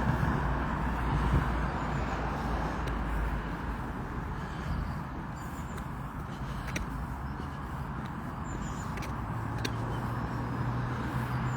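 Road traffic: a steady rush of passing cars, heaviest in the first few seconds, with a low engine hum setting in near the end.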